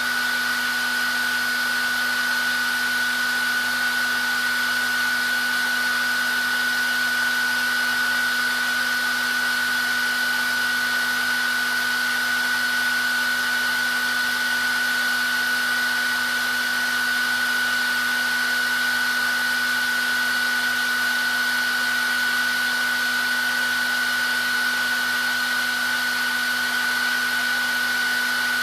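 Handheld hair dryer running steadily: an even airy rush with a constant high whine from the motor and a lower hum, unchanging throughout.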